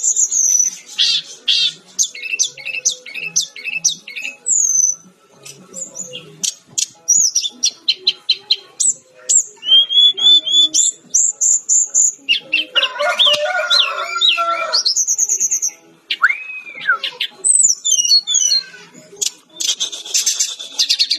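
Sikatan-rimba dada-coklat (jungle flycatcher) singing a loud, varied song of whistled sweeps, rapid repeated notes and trills, with a denser, jumbled phrase about two-thirds of the way through.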